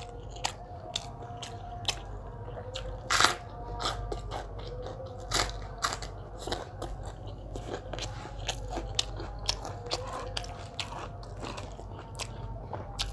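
Close-miked eating: chewing and biting food, with irregular crunches and wet mouth clicks. The loudest crunch comes about three seconds in.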